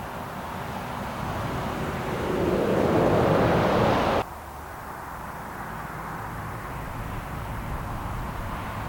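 Lorries passing on a motorway: tyre and engine noise swells to a peak about three seconds in, then cuts off suddenly. After that, steadier traffic noise with a low engine hum that builds again near the end.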